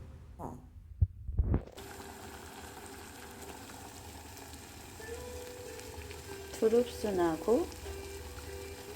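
Steady hissing, crackly background noise, with two low knocks about a second in.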